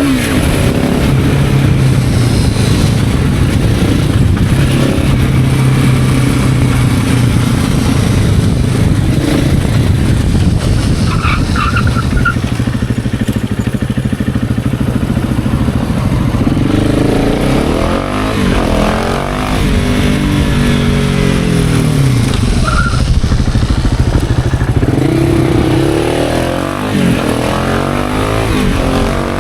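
KTM 690 SMC R's single-cylinder engine through a KTM PowerParts exhaust, heard on board while riding: a steady pull for the first several seconds, then the revs rise and fall repeatedly in the second half.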